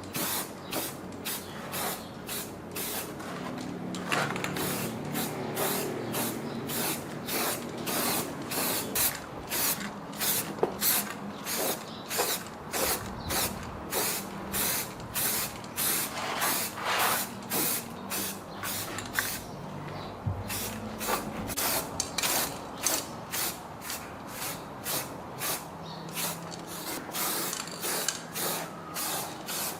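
Rhythmic hand scraping or rasping strokes, about two a second, going on steadily with small pauses.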